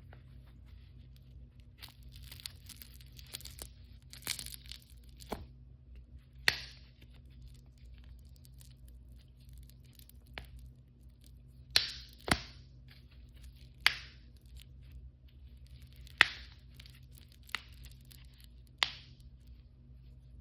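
Blind-bag toy packaging torn open and crinkled by hand, with a stretch of rustling tearing a few seconds in, then a series of sharp clicks and snaps spaced a second or two apart.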